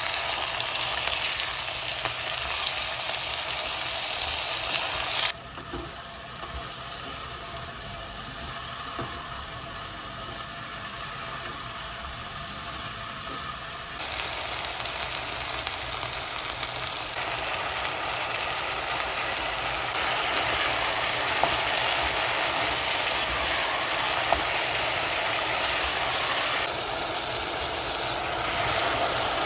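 Food frying and sizzling in a pan, a steady hiss that changes level abruptly several times.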